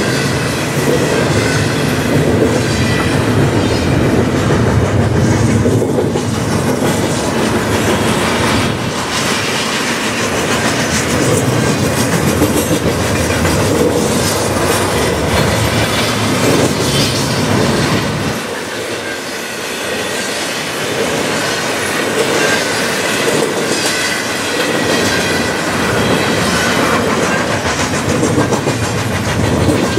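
Double-stack intermodal container train rolling past: steel wheels clacking over rail joints in a steady, dense rumble. The deepest part of the rumble thins for several seconds a little past the middle, then returns.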